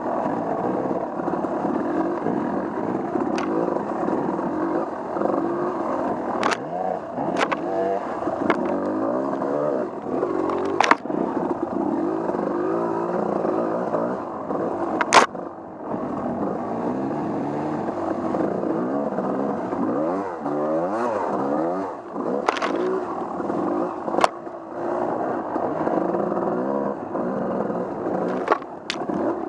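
Off-road vehicle engine running on a trail, its pitch rising and falling again and again as the throttle opens and closes, with sharp knocks and clicks scattered through, the loudest about halfway.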